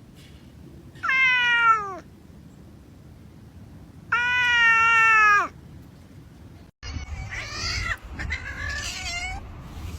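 Domestic cat giving two long, loud meows, each dropping in pitch at its end. After a brief dropout, fainter, rougher cat calls follow over more background noise.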